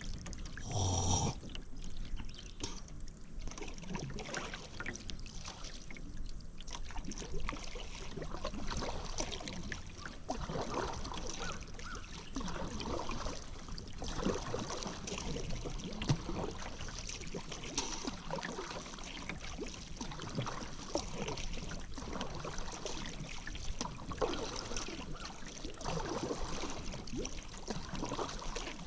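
Kayak paddle strokes in river water, with water trickling and splashing off the paddle blades in an uneven rhythm. There is a brief louder noise about a second in.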